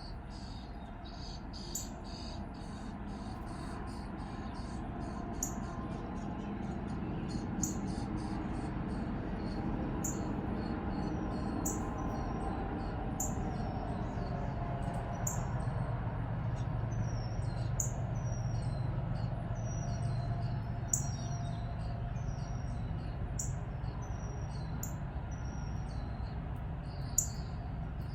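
A small bird calling over and over, short high chirps that drop in pitch, one every second or two, over a steady low rumble.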